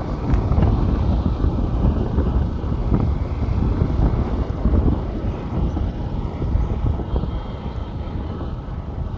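Motorcycle on the move: a steady, low rumble of engine and road noise, buffeted by wind on the microphone.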